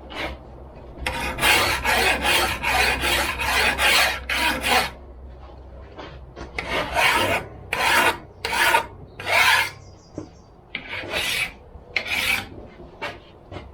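Hand file scraping back and forth along the steel rails of a chainsaw guide bar, taking off burrs. There is a quick run of about two or three strokes a second for a few seconds, then slower, separate strokes.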